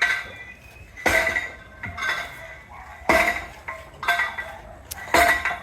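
Hammer striking metal on a building site, about one sharp, ringing blow a second, some blows closer together.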